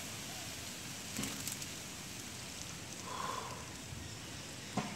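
Steady hiss of heavy rain, with a few faint clicks and knocks about a second in and near the end.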